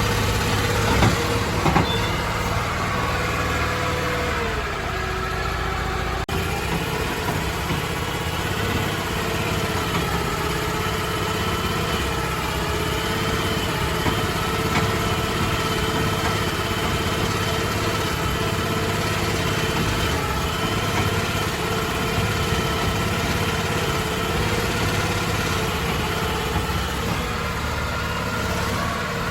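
Engine idling steadily, its pitch dipping slightly about five seconds in, with a couple of brief knocks near the start.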